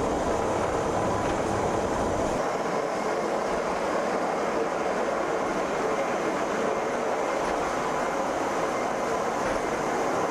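Pilatus Railway cog-railway car running steadily on its rack track; the deepest part of the rumble drops away a couple of seconds in.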